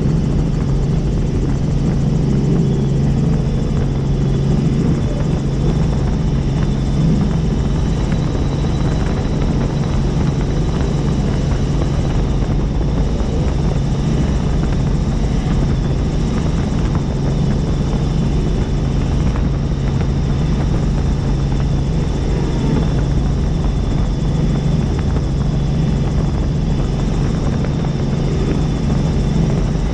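Helicopter in steady cruising flight: a constant, loud, even drone of rotor and engine, with a faint high steady tone above it.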